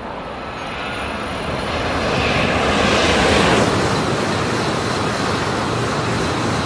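Southeastern Class 395 high-speed electric train passing at speed on the HS1 line: a rush of air and wheel noise that swells to its loudest about three and a half seconds in, then holds steady as the carriages run by.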